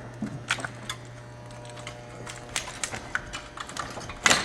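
Scattered light clicks and knocks of metal parts shifting as an engine is hoisted out of a pickup's engine bay, over a steady low hum that stops about four seconds in, followed by a louder clatter near the end.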